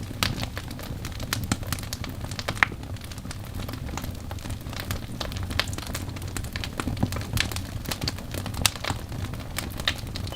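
Log fire crackling in a fireplace: irregular sharp pops and snaps over a steady low rumble of flames.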